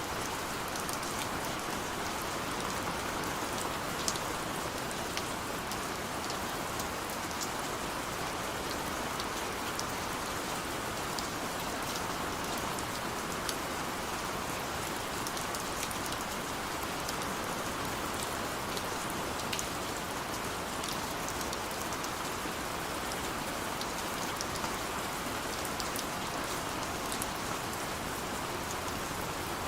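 Steady gentle rain falling, a constant hiss with scattered sharp drop ticks on hard surfaces.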